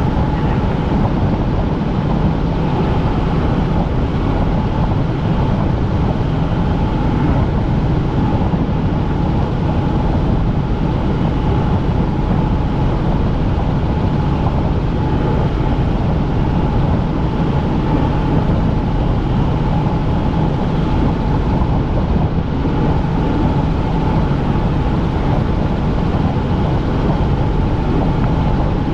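Helicopter in flight: steady engine and rotor noise, a constant whine over a low drone.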